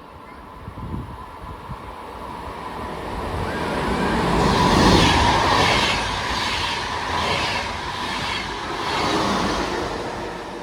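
A rail vehicle passing close by, its noise building to its loudest about halfway through and then easing off. Through the second half there is a series of rattles about a second apart as the wheels go by, over a faint steady whine.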